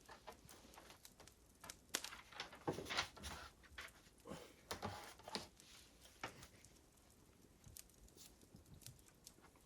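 Wood fire crackling softly, with irregular snaps and pops.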